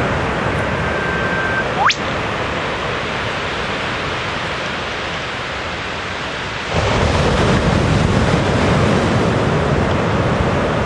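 Male eastern whipbird calling: one long held whistle that ends about two seconds in with a sharp whip-crack sweeping steeply up in pitch. A steady rushing background noise runs underneath and gets louder about seven seconds in.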